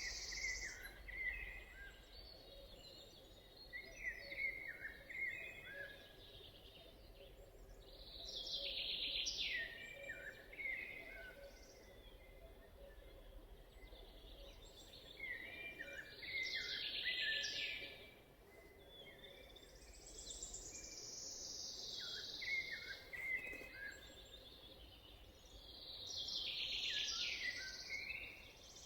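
Forest birdsong: one bird repeats a loud song phrase about every six seconds, each phrase starting high and falling in pitch, with other birds chirping more quietly in between.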